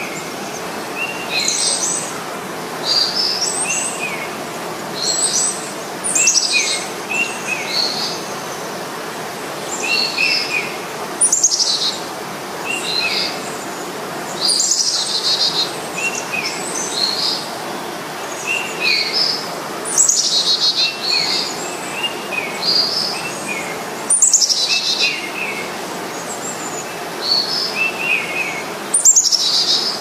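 Songbirds chirping: a steady stream of short, high chirps, with a louder run of quick notes falling in pitch every few seconds.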